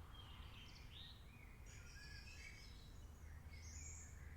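Rainforest ambience: several birds calling at once, short chirps and whistles that slide up and down in pitch, over a faint low hum.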